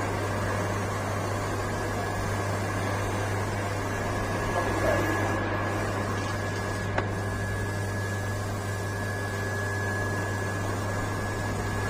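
An electric motor running steadily with a low hum, a faint high whine growing stronger about halfway through, and one short tick about seven seconds in.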